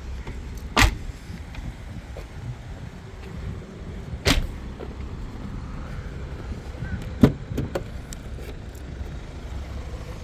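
BMW 5 Series GT car doors being shut: three solid thuds a few seconds apart, then a few lighter latch clicks, over a low steady rumble.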